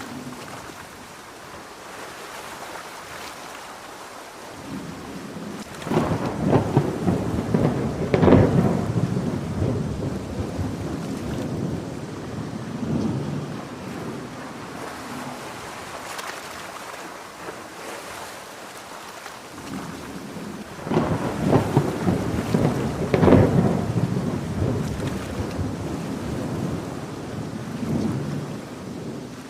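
Steady heavy rain with two long rolls of thunder, the first starting about six seconds in and the second about twenty-one seconds in, each swelling to a sharper crack and then rumbling away.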